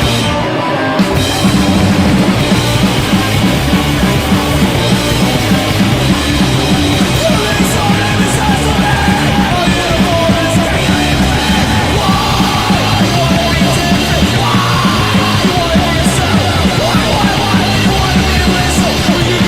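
Band rehearsal recording of a punk rock song with guitar, bass and drums. The guitar plays alone at first, and the full band comes in about a second in and keeps going at full volume.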